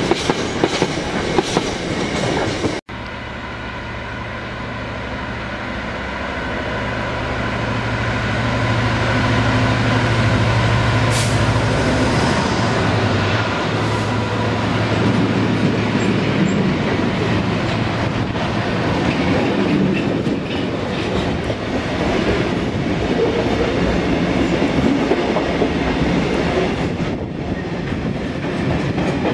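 The tail of a container freight train running past, its wheels clicking rhythmically over the rail joints; then, after an abrupt break, a long freight train of open box wagons rumbles past close by, a low locomotive engine hum strong for the first several seconds before giving way to steady wheel and wagon rumble.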